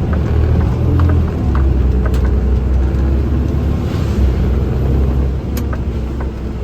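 Garbage truck driving, heard from inside the cab: a steady low engine and road rumble with scattered light clicks and rattles.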